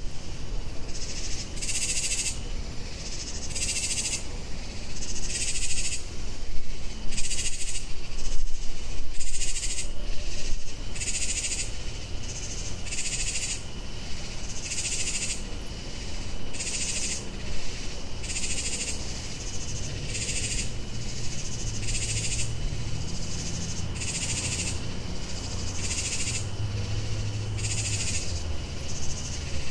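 Night chorus of animal calls answering each other back and forth: short raspy calls, high in pitch, about one a second in an uneven overlapping rhythm. A low steady hum runs underneath, stronger in the second half.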